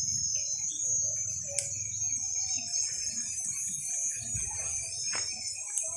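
Outdoor ambience with a steady high drone like insects and a low rumble, faint scattered distant sounds, and two sharp pops, one about a second and a half in and one about five seconds in.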